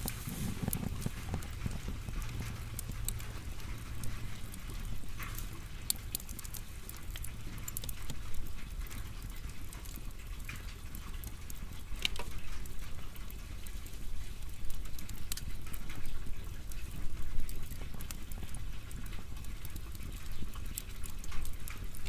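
Firewood burning in an open fire: a low steady rumble of flames with irregular sharp crackles and pops from the wood.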